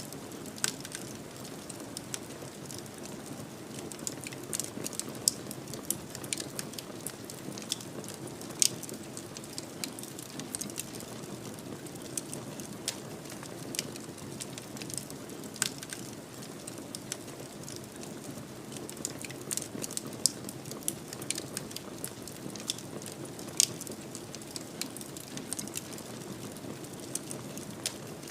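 Wood fire in a fireplace crackling, with irregular sharp pops and snaps, a few louder ones, over a steady low rush of the flames.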